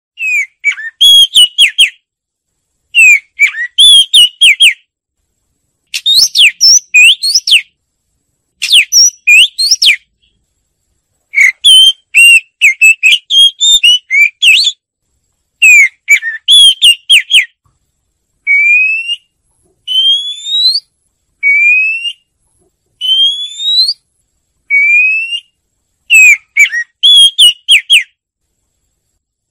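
Oriental magpie-robin singing: loud, varied whistled phrases of one to two seconds each, separated by short pauses. In the middle comes a run of five rising whistles before the varied phrases return.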